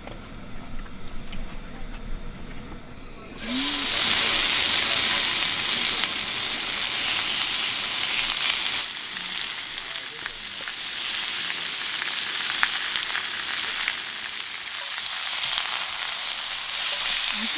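Pork belly sizzling on a grill over charcoal. The sizzle starts suddenly about three and a half seconds in, as fresh meat goes onto the hot grill, and carries on loud and steady.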